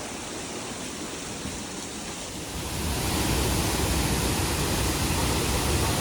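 Waterfall rushing as a steady wash of noise, which grows louder and deeper about two and a half seconds in.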